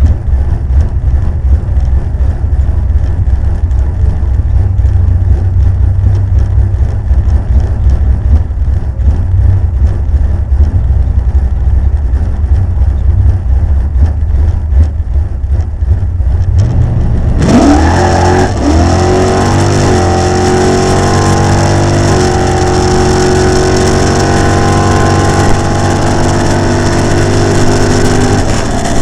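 Pontiac Firebird drag car's engine heard onboard, rumbling at a lumpy, uneven idle; about 17 seconds in the sound changes abruptly and the engine revs up sharply, then runs at high, steady revs with a step in pitch a few seconds later.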